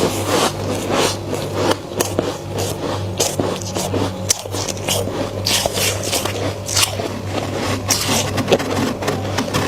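Flaky freezer frost being bitten and chewed close to the microphone: a dense run of irregular crisp crunches with some scraping.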